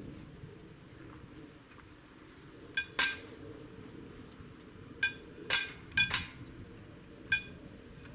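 A small metal bell struck about seven times at uneven intervals, each strike a short clear clink with a brief ring, in pairs and singles.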